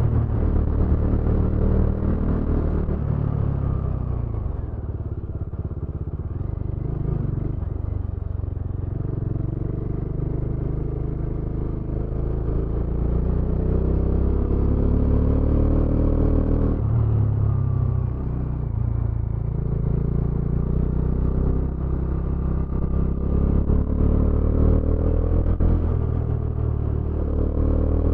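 Motorcycle engine running while riding, its pitch climbing under acceleration and dropping back as the throttle eases, several times over.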